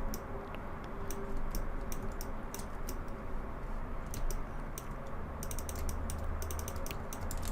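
Computer keyboard and mouse clicking in short irregular runs while working in 3D modelling software, over a low steady hum.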